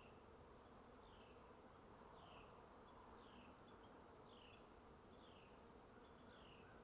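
Faint, steady hum of honeybees buzzing around the hives, with a short, high, falling chirp repeating about once a second over it.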